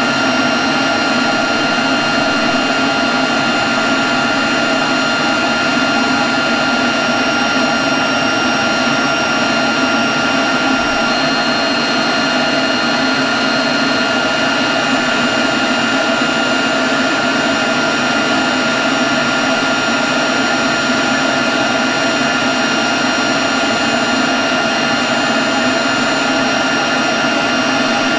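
Leaf blower running at a constant speed: a steady high whine over the rush of blown air, with no change in pitch or level.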